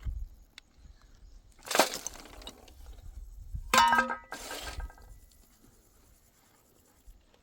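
A knock, then about two seconds later a clank that rings briefly, followed by a short scrape.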